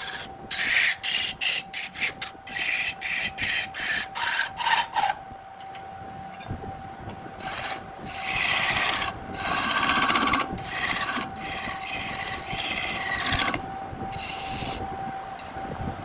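A tool rasping against a burl blank spinning on a wood lathe. It makes quick short passes, about two a second, for the first five seconds, then longer strokes of a second or so each. A steady tone runs underneath.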